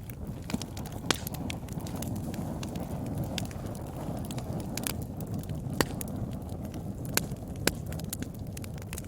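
Wood fire burning in a fireplace: a steady low rumble of flames under scattered crackles and sharp pops, a few of them much louder than the rest.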